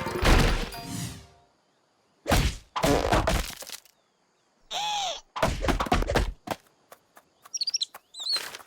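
Cartoon sound effects separated by brief silences: several thuds and cracks, a short swooping tone about five seconds in, and quick bird-like chirps near the end.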